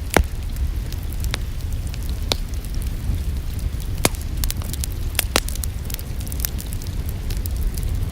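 Wood fire crackling in a fireplace: irregular sharp pops and snaps, the loudest right at the start, over a steady low rumble of the flames.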